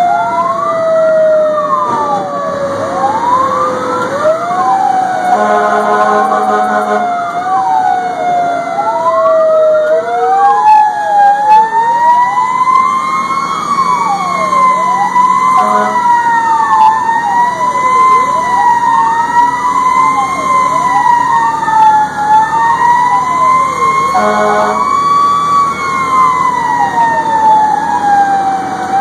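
Fire engine sirens: one tone sweeps up and down about every two seconds while a second falls slowly, then climbs back and holds with a gentle wobble. Steady horn blasts cut in twice, about six seconds in and again near the end.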